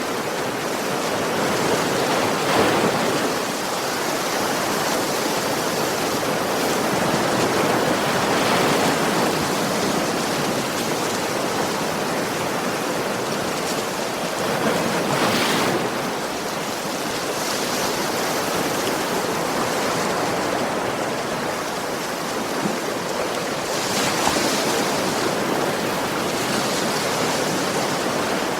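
Sea waves breaking on a beach, a steady wash of surf that swells every several seconds as each wave comes in.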